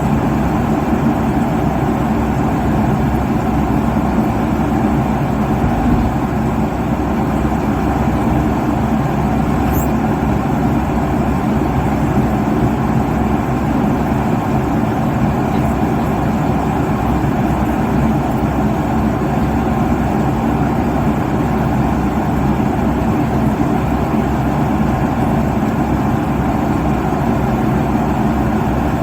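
Steady, unbroken cabin noise of a jet airliner at cruise altitude: engine and airflow rush, deepest and strongest in the low range.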